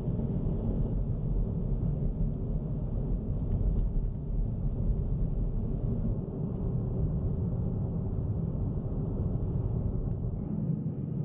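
Car driving on a winter road: steady low road and engine rumble.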